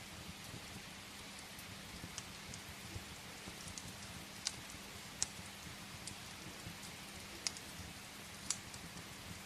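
Steady rain hiss with a few sharp, scattered pops from a crackling wood fire, the loudest about halfway through and near the end.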